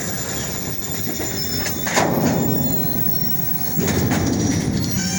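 Freight train rolling slowly through a yard at about 10 mph, steel wheels rumbling and clattering over the rails with thin high wheel squeal, and a sharp bang about two seconds in.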